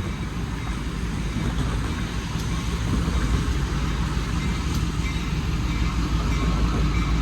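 Diesel locomotive throttled up and working under load: a steady low rumble of engine and train, growing a little louder about three seconds in.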